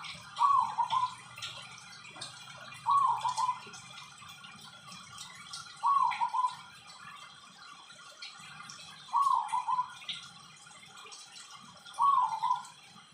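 Zebra dove cooing: five short calls about three seconds apart, each a clear note that bends down and back up, then breaks into a quick rolling trill. Faint scattered clicks sound in the background.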